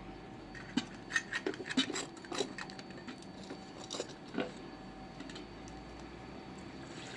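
A scatter of light, sharp clicks and knocks, a dozen or so irregular hits over about three and a half seconds, then only a faint steady background.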